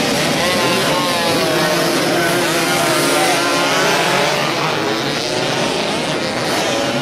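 Several racing motorcycle engines running together at high revs, their pitches overlapping and rising and falling as the riders work the throttles.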